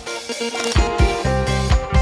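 Steel band playing an upbeat tune with bass and drums; the bass drops out for about the first second, then comes back in.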